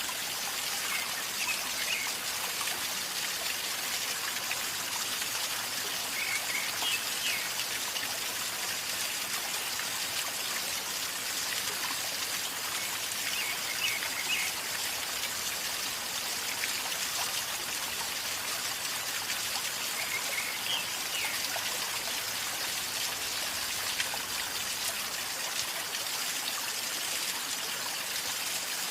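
River water flowing steadily with a gurgling, trickling sound.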